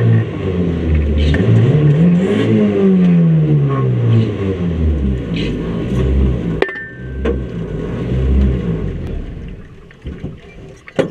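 A micro banger's engine revving up and down, heard from inside the stripped-out car. About six and a half seconds in there is a sharp knock, after which the engine runs lower and dies down near the end.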